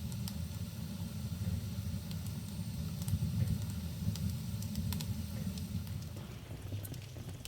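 Wood fire burning in a fireplace: a steady low rumble of flames with scattered sharp crackles and pops from the burning logs, the pops coming more often near the end.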